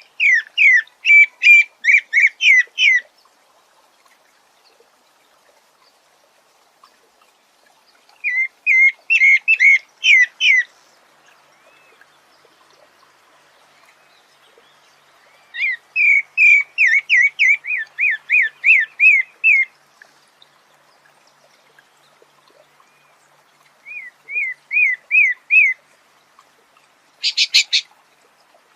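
A sabiá singing in phrases of rapid, repeated whistled notes, each phrase two to four seconds long with pauses of several seconds between. There are four such phrases, then a short, higher burst of notes near the end.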